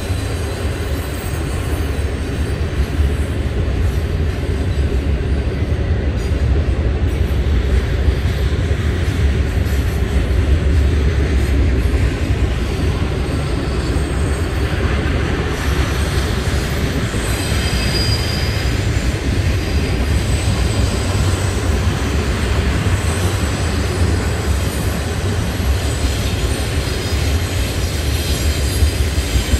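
Double-stacked container cars of a CSX intermodal freight train rolling past in a steady rumble, with high-pitched wheel squeals joining in about halfway through.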